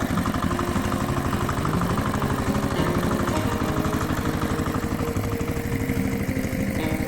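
Tractor engine idling with a steady, rapid, even chug.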